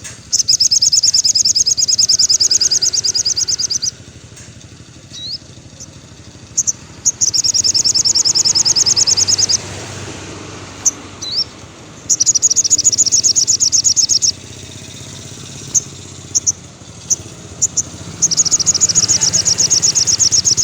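Sogon bird singing: four bouts of a rapid, high-pitched trill, each two to three and a half seconds long, with single short chips between them. A low steady engine-like hum runs underneath.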